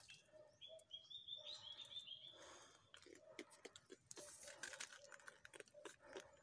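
A bird calling a quick run of short, high notes that step slightly upward, ending about three seconds in. Soft clicking and rustling of hands handling fish on a string among dry leaf litter continues, busier in the second half.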